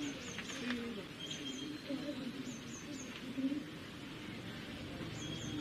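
Small birds chirping: short, high notes in quick twos and threes, repeating every second or so, over faint background voices.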